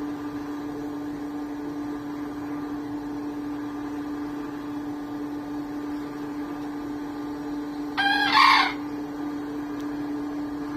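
A white bekisar, the green junglefowl–domestic chicken hybrid, crows once about eight seconds in: a short, high, two-part crow. A steady low hum sounds under it throughout.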